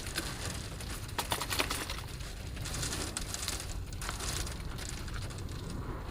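Wind-driven rain beating on a kei van's body, heard from inside: a steady low rumble with surges of hissing spatter as the gusts come through.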